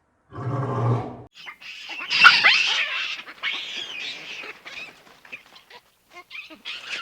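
Animal calls: a short low, deep roar-like call lasting about a second, then a run of high-pitched squeaks and chirps with quick rises and falls in pitch.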